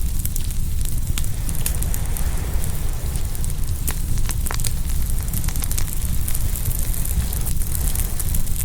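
Open wood fire crackling, with many irregular sharp pops, over a steady low rumble.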